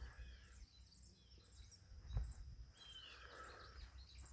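Faint bird chirps over a low steady rumble of background noise, with a single soft knock about two seconds in.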